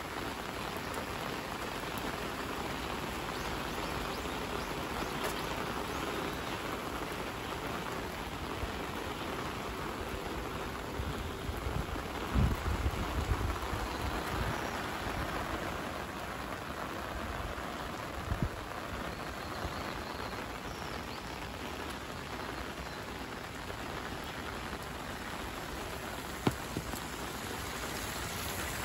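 Steady rain falling on pavement and on an umbrella overhead, an even hiss with raindrop patter. A few short low bumps come near the middle.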